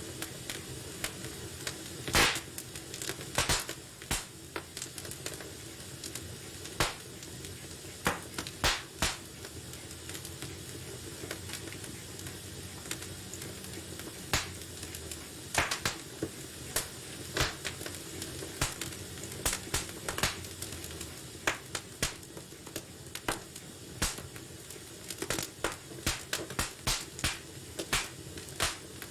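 Wood fire burning in a fireplace: a steady soft hiss with sharp crackles and pops at irregular intervals, sometimes in quick clusters.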